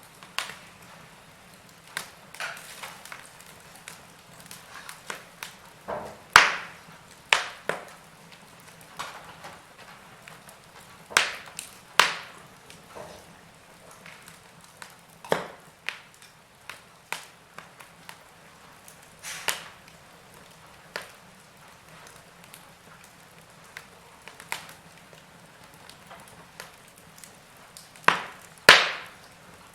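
Log fire in a fireplace crackling, with irregular sharp pops of varying strength about a second apart over a soft steady background. Louder pops come about six seconds in and near the end.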